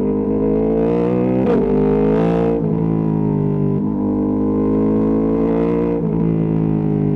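Ducati Panigale V2S V-twin engine through a Termignoni exhaust, running at a steady cruising speed with small rises and falls in pitch. There is a short break about a second and a half in, and the pitch eases down near the end as the throttle is closed.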